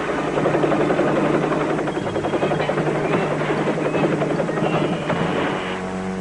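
Cartoon sound effect of a helicopter rotor chopping steadily over a low hum, with background music coming in near the end.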